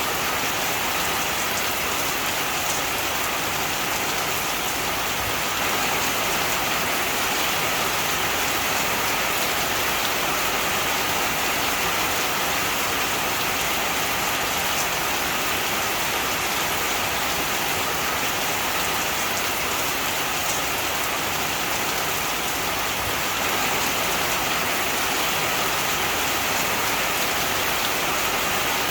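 Steady heavy rain, a dense even hiss of drops falling on surfaces, with faint individual drop ticks.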